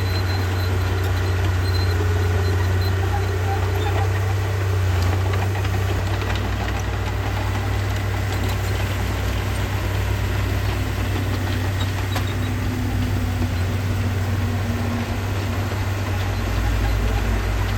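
Diesel engine of heavy earthmoving machinery running steadily, with a low, even drone.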